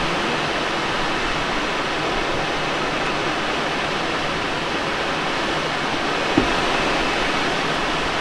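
Steady rush of air noise in the cockpit of a Let L-13 Blaník glider in flight, with a single short knock a little past six seconds in.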